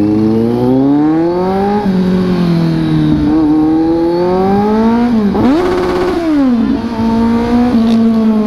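Kawasaki Z900 SE inline-four with a decatted Orion dual-pipe exhaust, accelerating hard: the note climbs, drops with an upshift about two seconds in, and climbs again. Around the middle it dips, flares briefly with a rattling crackle and falls back, then holds a fairly steady cruise.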